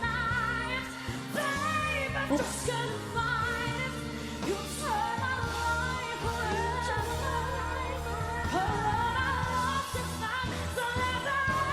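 Female singer belting a pop ballad over band accompaniment, holding long notes with vibrato.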